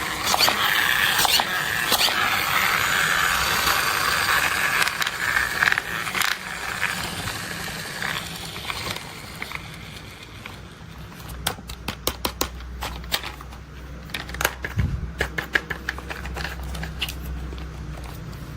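Toy construction vehicles being handled and played with: a dense scraping and rustling for the first half, then a string of small sharp clicks and taps.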